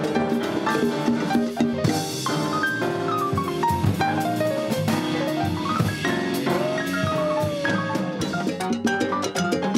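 A Latin jazz band playing, with drum kit and percussion keeping a busy rhythm and melodic runs falling and rising over it. A cymbal crash comes about two seconds in.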